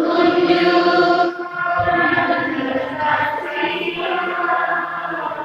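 Children's school choir singing sustained notes together in a Mass hymn, with a short break after about a second before the singing resumes.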